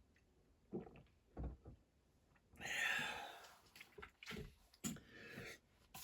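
Small objects being handled on a workbench: a few light knocks, a brief scrape or rustle about halfway through, then more knocks and scrapes.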